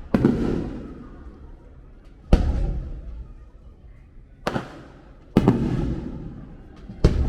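Aerial fireworks shells bursting: five sharp bangs one to two seconds apart, each fading out in a low rumble.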